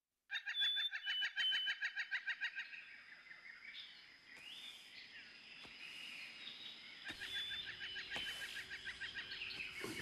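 Forest ambience of birds calling: a fast, even chattering trill of about seven notes a second with short whistles over it, then softer scattered chirps, then the chattering trill again in the second half.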